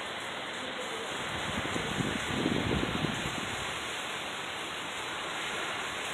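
Heavy rain falling steadily, with a brief louder low rumble about two and a half seconds in.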